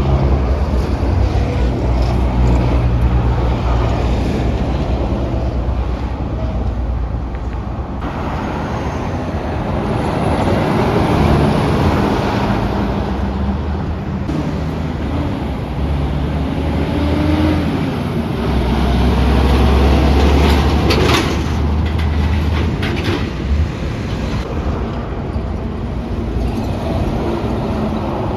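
Heavy trucks running with road traffic noise: a low, steady engine drone under a wash of tyre and road noise, changing abruptly twice. A short cluster of sharp clicks comes about 21 seconds in.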